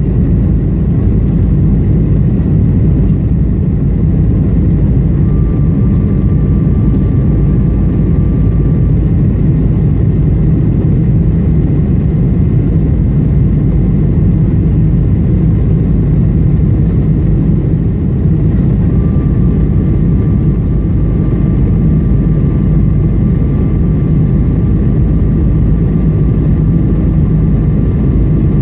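Steady, loud low rumble of a Boeing 747-400's four engines and airflow, heard from inside the economy cabin. A faint thin whine comes in twice, for a few seconds at a time.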